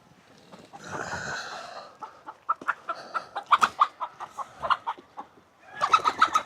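A chicken being chased, clucking rapidly in alarm. There is a flurry of wing-flapping about a second in, and a louder squawking, flapping burst near the end as it gets itself out of the pen.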